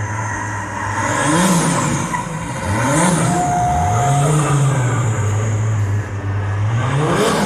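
Drift car engine revving in repeated swells, the pitch climbing and dropping several times over a steady low drone.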